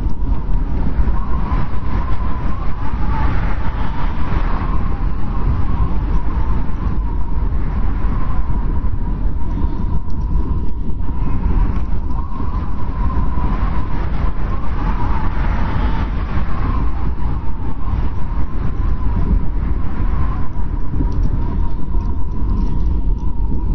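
Blizzard wind blowing in a steady deep rumble, with a thin wavering whistle above it that swells and fades in gusts.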